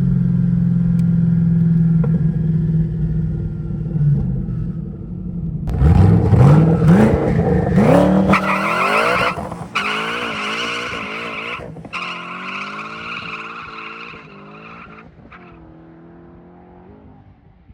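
Twin-turbo 2011 Mustang GT's 5.0 Coyote V8 making a hard pull: a steady low engine note, then from about six seconds in the revs climb sharply, break for gear shifts, climb again, and fade as the car pulls away into the distance.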